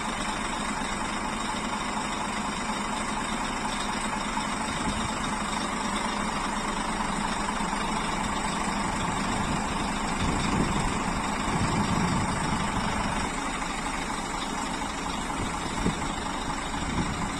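A Scania bus engine running steadily, getting a little louder for a couple of seconds about ten seconds in.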